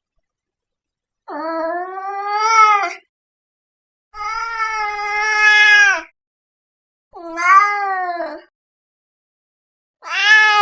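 A domestic cat meowing: four drawn-out meows a second or two apart, the second one the longest. The last one starts near the end and runs on past it.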